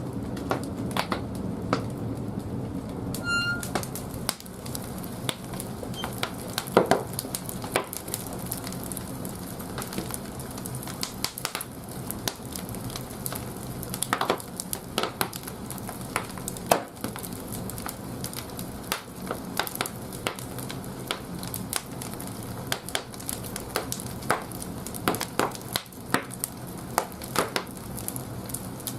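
Firewood burning in the firebox of an old wood-fired bathhouse boiler: steady crackling with sharp pops throughout. A low hum runs underneath and is louder in the first few seconds.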